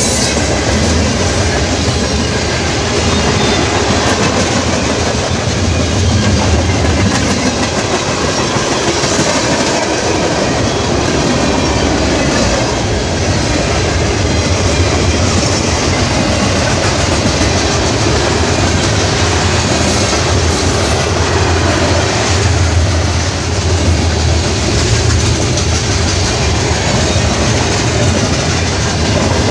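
Train cars rolling past on the track, with steady wheel-on-rail noise and no horn.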